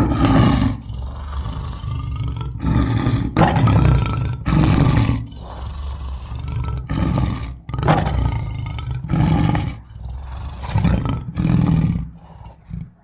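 Edited hamster sound effects: a run of about eight loud, rough bursts, each lasting up to about a second, over a low rumble, dying away near the end.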